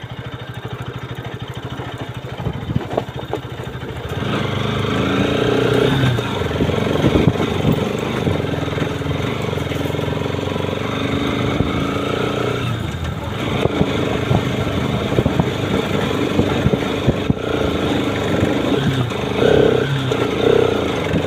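Single-cylinder sport motorcycle engine carrying the bike up a dirt trail, heard from the rider's seat: quieter at first, then louder about four seconds in as the throttle opens, with the revs rising and falling after that.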